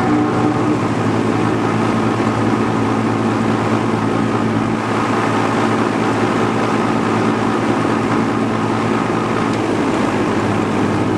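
Vintage Duralux box fan with a Westinghouse fractional-horsepower motor running, steady air rush over a low motor hum, carrying the noise or vibration the motor has developed. The noise shows on high speed and is gone on low; the owner can't place its cause.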